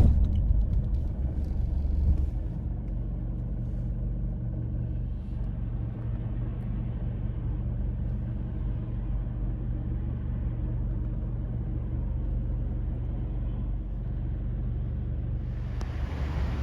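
Steady low engine and road rumble heard from inside a moving car, with a brighter hiss coming in near the end.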